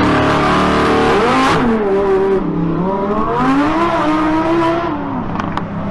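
Car engine revving hard. Its pitch falls about a second and a half in, climbs again and holds, then drops near the end, over steady noise.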